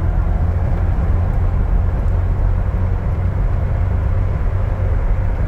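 Interior road and engine noise of a 2006 Jeep Wrangler Rubicon at highway speed near 60 mph: a steady low drone from the 4.0-litre inline-six at about 2,000 rpm, mixed with tyre and wind noise.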